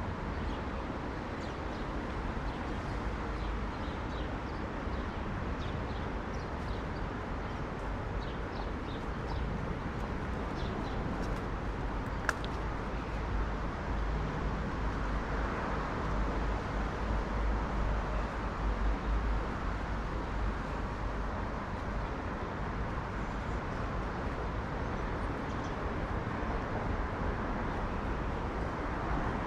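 Early-morning city ambience: a steady low rumble of traffic, with faint bird chirps in the first half and one sharp click about twelve seconds in.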